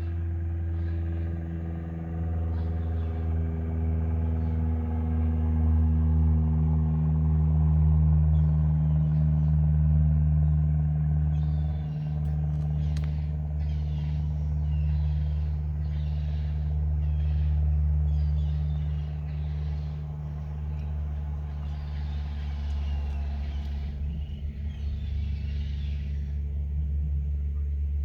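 Car engine idling steadily, a low, even hum. Fainter scattered higher sounds come and go over it from about halfway through.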